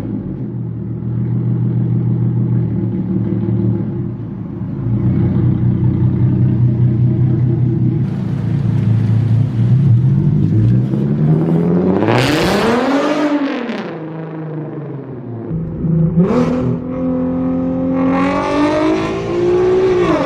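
Infiniti Q50's engine through an aftermarket exhaust, running at a steady drone, then revving up and falling back twice: once about twelve seconds in, and again climbing from about sixteen seconds to near the end.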